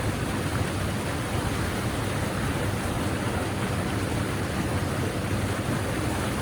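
Steady rush of fast-flowing stream water tumbling over rocks, an even noise that does not change.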